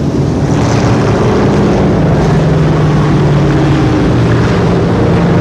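V8 engines of racing stock trucks running at speed, a loud steady drone whose pitch shifts slightly up and down.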